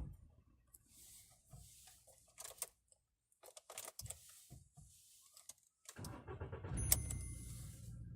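Faint clicks and rustles, then about six seconds in a Volkswagen Polo sedan's engine starts and settles into a steady idle, with a sharp click and a brief high tone just after it catches.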